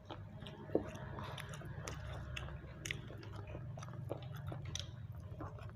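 Close-up chewing with wet mouth clicks and smacks, a person eating grilled chicken, with one sharper click under a second in. A steady low hum runs underneath.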